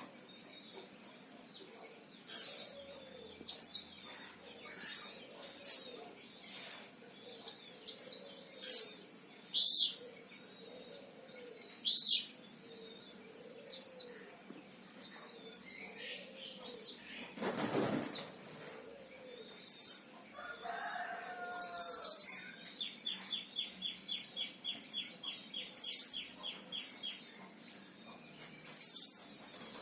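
Mantenan Himalaya songbird singing: a long string of short, high, sharp chirps and whistles, broken about two-thirds of the way through by a fast rattling trill.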